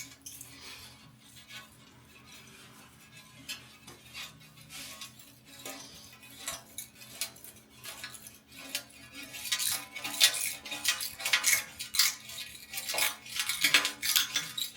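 A scraper blade drawn over windscreen glass, clinking as it catches and knocks off small pieces of metal stuck to the glass. Sparse light ticks at first, then dense, rapid clinking through the second half.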